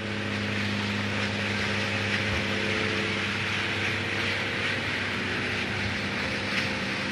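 A locomotive standing at rest in a rail yard: a steady hiss with a low hum under it, whose upper tones fade out a few seconds in.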